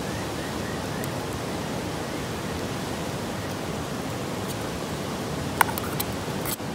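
Steady rushing noise with no pitch, like running water, with a few faint clicks about a second in and near the end.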